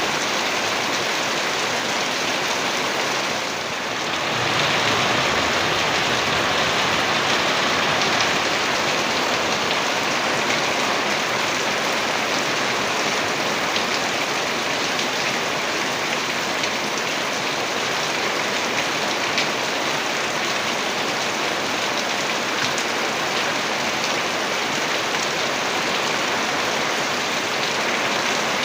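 Heavy rain falling steadily, a dense even hiss with scattered drop ticks, easing briefly for a moment about three and a half seconds in.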